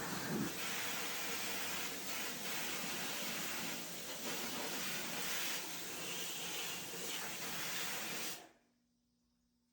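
Steady hissing noise that cuts off suddenly near the end.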